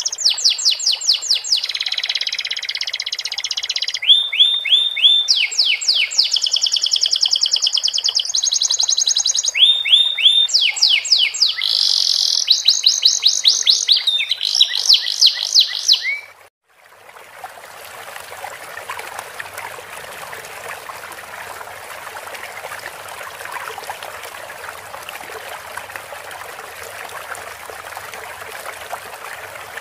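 Canary singing a fast song of rapid trills and repeated sweeping notes, its phrases taught from sikatan londo song. About halfway through the song cuts off abruptly and a steady sound of flowing stream water takes over.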